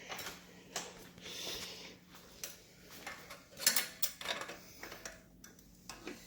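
Scattered metallic clicks, clinks and scrapes of hand tools and fasteners being handled while working on the motorcycle's exhaust, with a quicker run of sharp clicks about three and a half seconds in.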